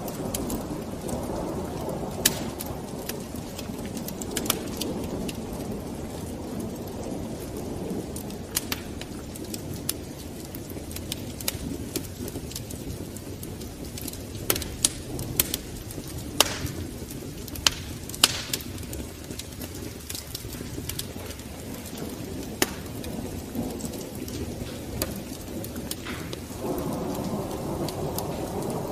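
Wood fire burning in a fireplace: a steady low rushing with irregular sharp crackles and pops, several louder pops bunched together about halfway through, and the rushing swelling again near the end.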